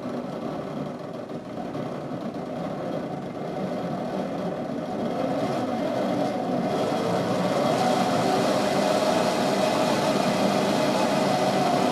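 Electric motor of a Lionel 2065 model steam locomotive running under power and growing steadily louder as it strains, stalled with 13 cars on an incline.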